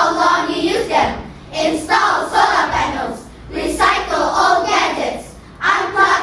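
A group of children's voices speaking in unison, chanting short phrases with brief pauses between them.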